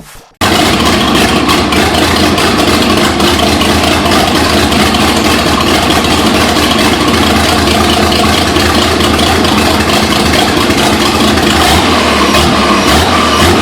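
Twin-turbocharged 3.8 L V6 of an SN95 Mustang running at a steady held speed, loud, with the rush of its turbos spooling. It cuts in suddenly just after the start.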